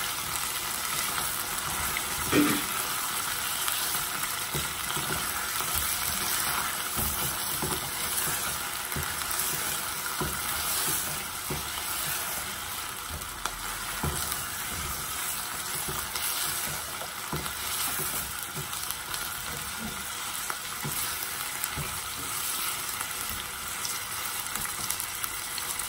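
Chicken pieces sizzling as they fry in oil in a nonstick saucepan, stirred with a silicone spatula that scrapes and taps the pan now and then. A louder knock comes about two and a half seconds in.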